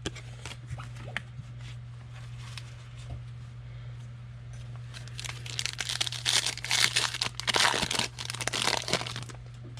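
Foil trading-card pack being torn open and its wrapper crinkled, a run of crackling from about five seconds in until about nine seconds, with a few faint rustles before it. A steady low hum runs underneath.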